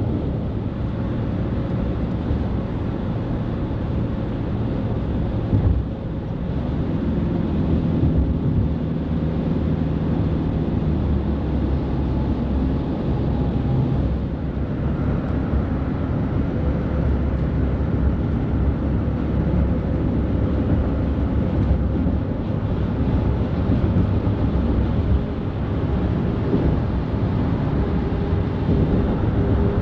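Highway traffic with heavy trucks passing: a continuous rumble of engines and tyre noise. A truck engine's hum stands out for a few seconds about a third of the way in.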